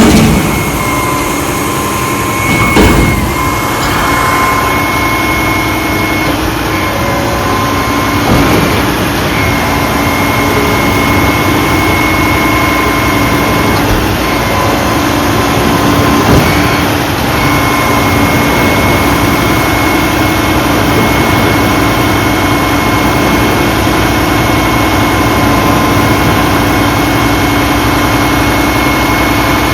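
Garbage truck's diesel engine running steadily, with a steady high whine over it and a few brief louder knocks.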